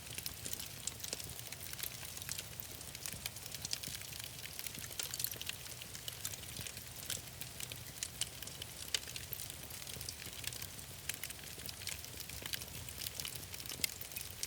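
Wood fire in a fireplace crackling, with frequent irregular small pops over a steady low rumble.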